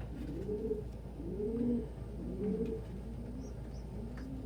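Domestic pigeons cooing, several low rolling coos overlapping and repeating, with a few faint high chirps near the end.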